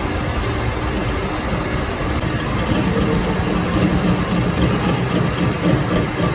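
An engine running steadily, growing a little louder and rougher about three seconds in.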